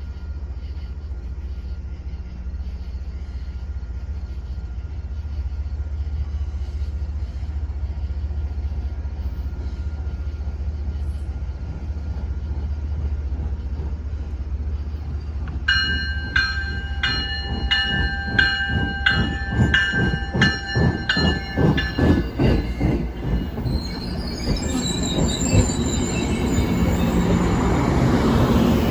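MBTA commuter train hauled by an HSP-46 diesel locomotive, its engine running with a steady low rumble. About halfway through a bell rings for several seconds, then the wheels click over the rail joints as the train moves, with wheel squeal near the end.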